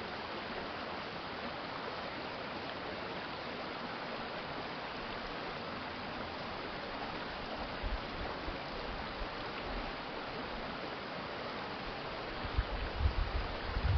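Water of a city stream running steadily, an even rushing sound. Brief low rumbles come about 8 seconds in and again near the end.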